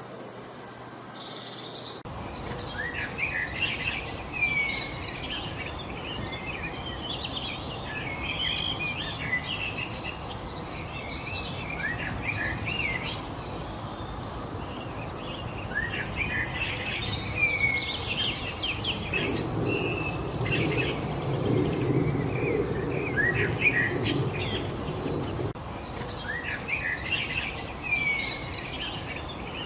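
Several songbirds chirping and singing together, quick overlapping calls, over a steady hiss. About two-thirds of the way in a low rumble rises under them for several seconds, then fades.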